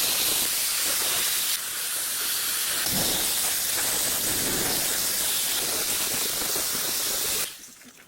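A steady hiss, as of spraying or rushing water, that shifts a little about one and a half seconds in and cuts off suddenly near the end, followed by a few faint clicks.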